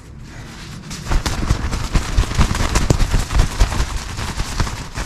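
A down jacket being shaken and patted to fluff up the down: rapid, irregular soft thumps and fabric flaps, starting about a second in.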